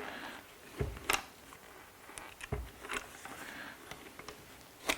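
Scattered clicks and knocks of seat parts being handled and moved into place, with two dull thumps, about a second in and halfway through.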